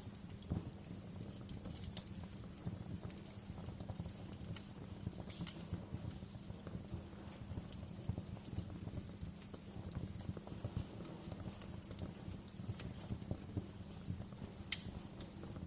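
Wood fire crackling in a fireplace: a steady low rumble of burning under frequent small snaps, with a sharper pop about half a second in and another near the end.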